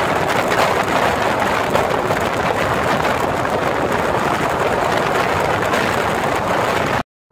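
Loud, steady rushing noise of a high-speed bullet train running at speed, cut off suddenly just before the end.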